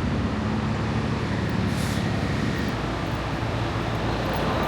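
Semi-truck diesel engine running steadily under a dense rush of noise, its low hum shifting about two-thirds of the way through.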